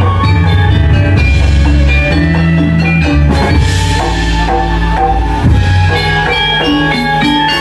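Balinese gamelan playing: metallophones ringing out a stepping melody over drums and low gongs, with a brief hissing swell about four seconds in.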